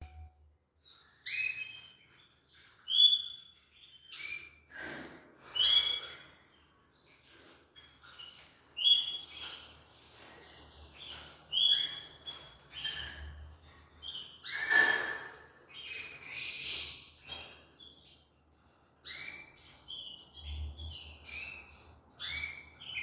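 Red mosaic canaries chirping: short, sharp calls coming irregularly, about one or two a second, with a louder cluster about two thirds of the way through.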